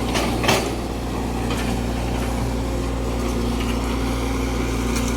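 Heavy vehicle engine running steadily with a constant low hum, with a brief knock about half a second in.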